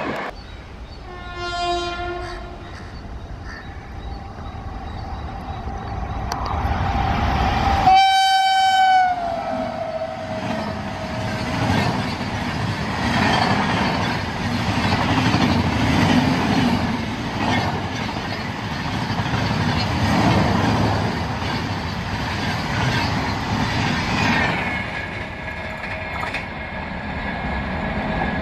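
A WAP-7 electric locomotive of Indian Railways passing at speed and sounding its horn: a faint, short blast, then a long, loud blast whose pitch drops as the locomotive goes by. Its express coaches then run past with a heavy rumble and a rhythmic clatter of wheels over rail joints for about fifteen seconds, easing off near the end.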